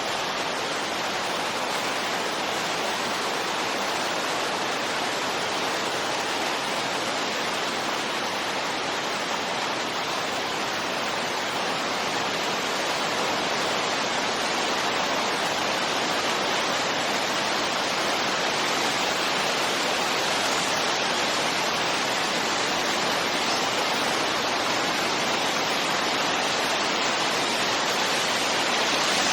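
Steady wind noise: an even, unbroken hiss without distinct gusts, growing a little louder toward the end.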